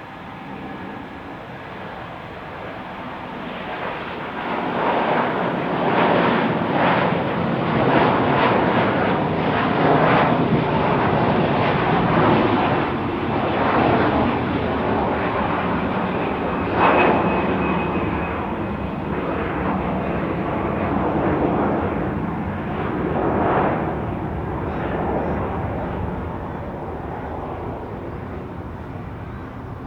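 Airliner engines passing at close range: the noise swells over the first five seconds or so, stays loud through the middle, then slowly fades.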